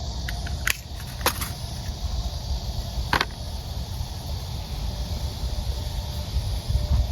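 Steady low outdoor rumble with a few sharp clicks in the first second and a half and one more about three seconds in.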